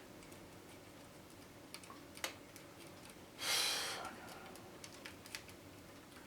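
Small clicks and taps of hands and a tool handling the plastic and metal insides of a boombox during disassembly. A sharper click comes a little over two seconds in, and a brief scraping rustle about three and a half seconds in is the loudest sound.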